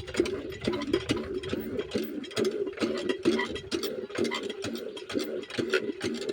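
Small 5 hp single-cylinder diesel engine of a water pump, knocking in a steady, even rhythm of about four to five beats a second.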